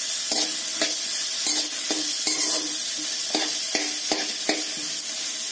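Bitter gourd pieces and masala paste sizzling in oil in a kadhai while a metal spoon stirs them, scraping and clinking against the pan about twice a second.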